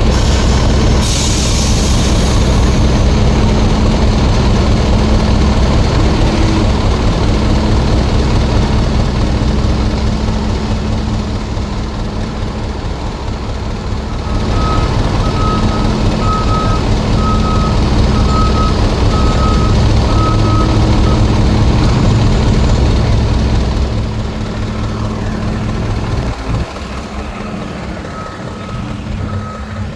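Heavy diesel construction machine running, with a reversing alarm beeping a little more than once a second from about halfway through and again near the end. A short hiss comes about a second in.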